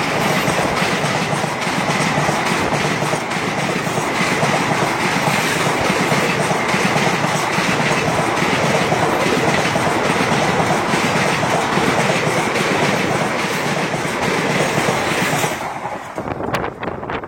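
A train running on the track: a loud, steady rushing rumble with faint repeated wheel clicks that drops away sharply about fifteen seconds in.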